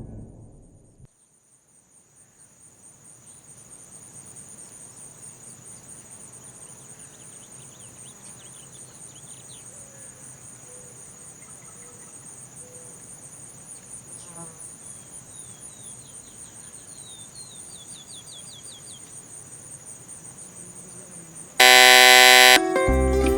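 Crickets or grasshoppers chirring steadily in a high, continuous pulsing buzz, with a few faint, rapid chirp series in the middle. Near the end a loud sustained chord cuts in suddenly, followed by music.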